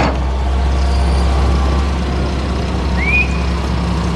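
John Deere excavator's diesel engine running under load with a steady deep drone. A sharp click at the start and a brief rising squeal about three seconds in.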